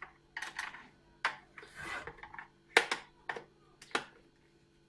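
Phillips screwdriver working screws out of a plastic fan heater casing: a run of irregular sharp clicks and taps, with a short scraping rub near the middle.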